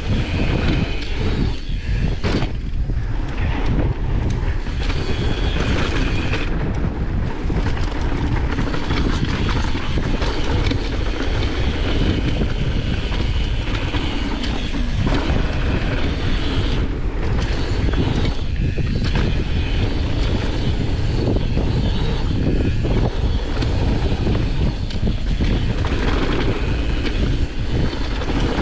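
Wind buffeting the microphone and tyres rolling over a dirt trail as a downhill mountain bike runs at speed, with frequent short knocks and rattles from bumps.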